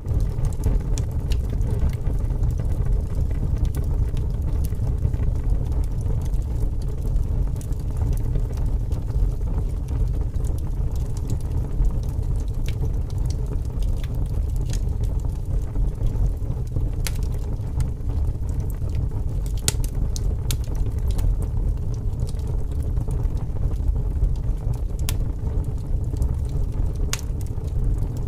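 Wood fire crackling, with scattered sharp pops, over a steady low rumble of wind.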